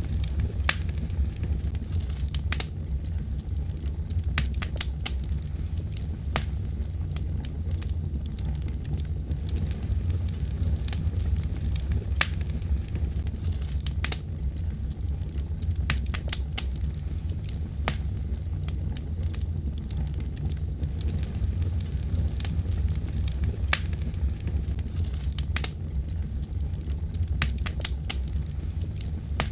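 Wood fire burning, with a steady low rumble of flame and sharp, irregular crackles and pops of burning wood, several a second at times.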